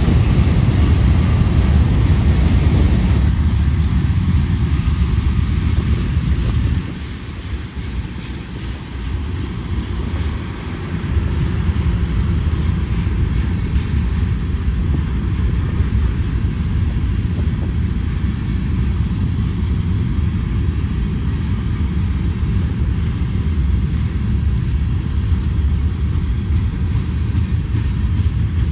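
Diesel-electric freight locomotives of a long train passing close by with a steady low rumble, working upgrade. The sound dips for a few seconds about seven seconds in, then returns to the same steady rumble.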